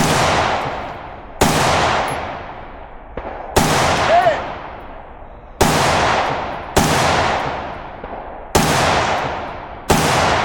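Seven rifle shots at steel targets, evenly paced about one to two seconds apart, each followed by a long echoing tail.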